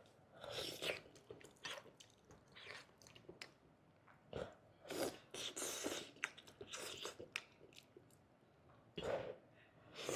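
Close-miked chewing and biting: wet mouth sounds of someone eating, coming in irregular clusters with short quiet gaps.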